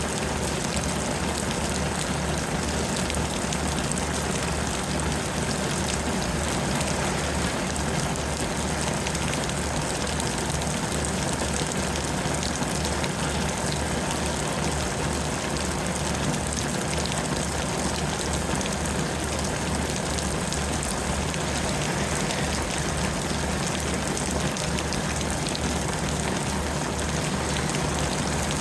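Steady heavy rain falling, with a low rumble underneath.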